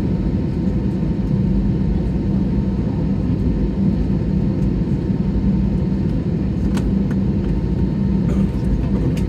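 Airliner cabin noise on the ground: a steady low rumble from the jet engines at idle, with a faint steady tone above it.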